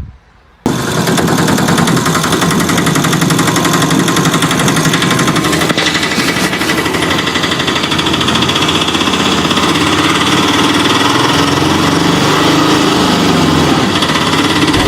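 A motor running steadily with a fast, buzzing rattle. It starts abruptly under a second in.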